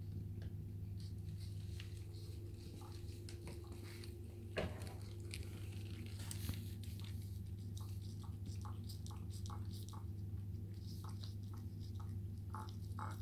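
A cat chewing and eating: many small, quick clicks and crunches, with one louder click about four and a half seconds in, over a steady low hum.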